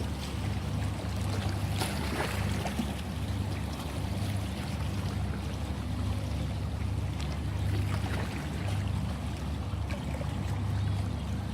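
Sea water washing and lapping, with small splashes and droplets ticking over a steady low rumble.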